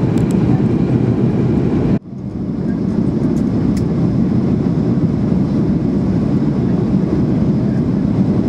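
Steady cabin roar of a Boeing 737-800 heard from a passenger seat: the CFM56 engines and the airflow over the fuselage give a deep, even rumble. About two seconds in the sound cuts out for an instant and comes straight back.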